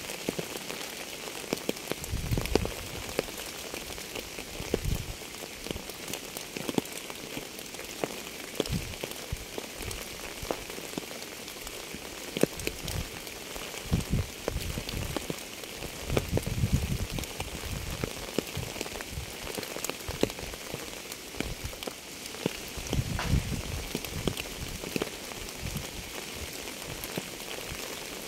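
Steady rain falling on a surface, with many separate drops ticking close by and a low rumble now and then.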